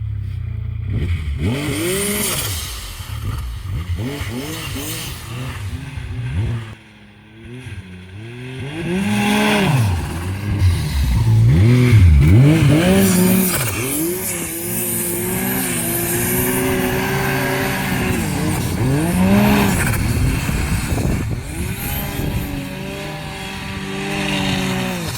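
Turbocharged Yamaha Nytro snowmobile's three-cylinder four-stroke engine revving up and down over and over under changing throttle, with one short lift-off about seven seconds in. The engine's turbo is fitted with a blow-off valve and is prone to heavy turbo flutter.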